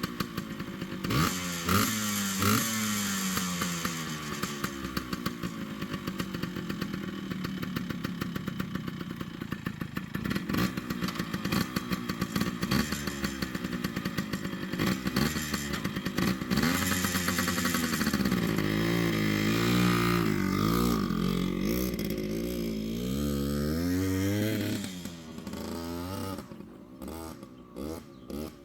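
Yamaha RT100's small two-stroke single-cylinder engine running with the throttle worked: quick blips in the first few seconds, a wavering rise and fall in revs past the middle, then dropping back to a low, uneven idle near the end.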